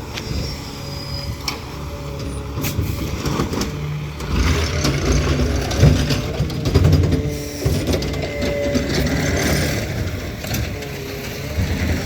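McNeilus ZR side-loading garbage truck on a Peterbilt 520 chassis running at the curb. Its engine revs up louder from about four seconds in, with a few clicks and knocks from the truck's mechanism in the first few seconds.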